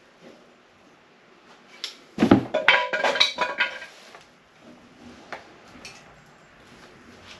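Metal roof basket clanking and rattling as it is handled and shifted, a burst of ringing metallic knocks about two seconds in that dies away by four seconds, with a few lighter knocks after.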